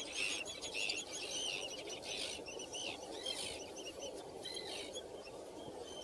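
Birds chirping in quick, overlapping high notes, busiest in the first two and a half seconds and thinning out after, over a steady background hiss.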